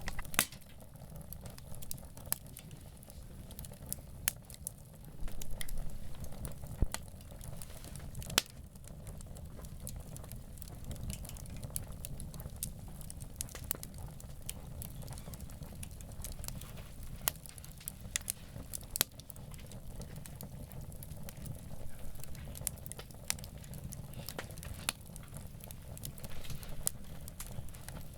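Wood campfire crackling, with irregular sharp pops and snaps over a low steady rumble; the fire is a little louder for a couple of seconds about five seconds in.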